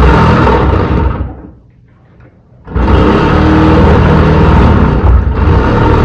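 Loud construction noise from work in the building: a dense mechanical din with a low hum. It dies away just over a second in and starts again abruptly about a second and a half later.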